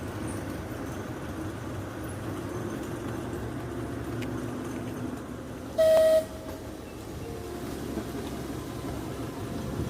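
Narrow-gauge railway train running with a steady rumble, and one short whistle toot about six seconds in.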